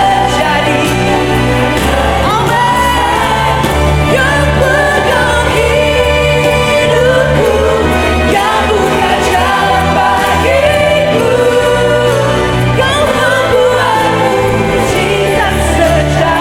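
Live worship music: a band playing under sustained bass notes, with singers' voices carrying a melody.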